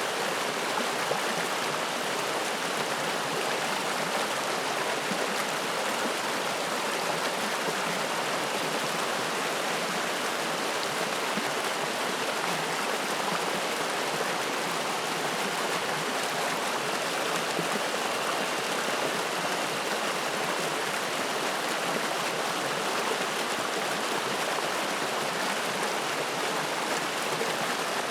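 Spring-fed mountain stream flowing and splashing: a steady, even rush of water with no breaks.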